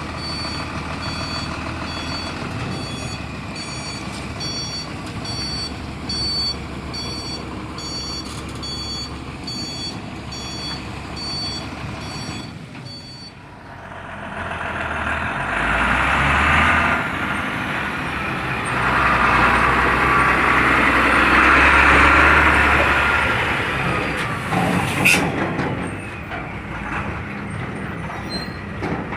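Tronton truck's reversing alarm beeping steadily over its diesel engine for about the first 13 seconds. Then the engine revs up loudly twice as the truck drives off, with a short sharp air-brake hiss near the end.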